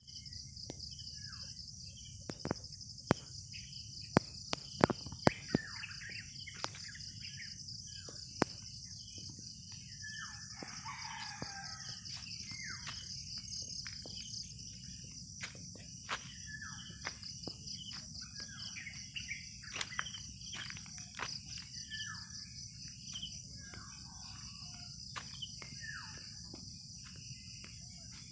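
Farmyard birds chirping in many short falling calls over a steady, high, pulsing insect trill; a rooster crows once about ten seconds in. A few sharp clicks in the first eight seconds are the loudest sounds.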